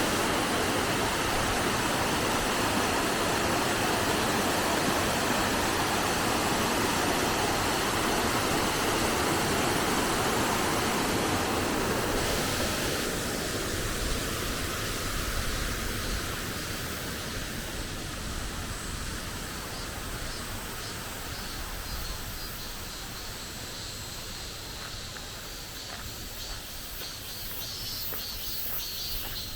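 Steady rushing of flowing water, loud for the first twelve seconds or so, then thinning to a softer, higher hiss for the rest.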